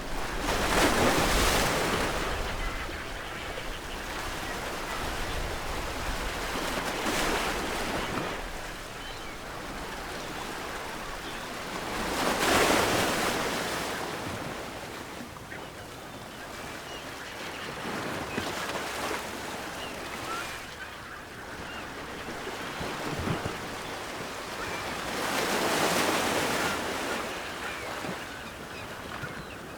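Ocean waves breaking on a shore, with five louder surges that swell and fade over the steady wash of surf.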